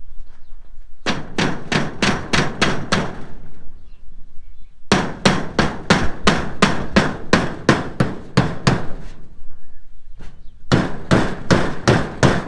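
Hammer driving nails: three runs of quick, evenly spaced blows at about four strikes a second, with short pauses between the runs.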